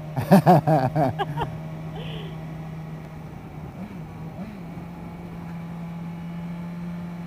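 Kawasaki Versys motorcycle engine running at a steady cruise, a constant low drone that holds one pitch. A brief loud burst of a rider's voice comes over it in the first second and a half.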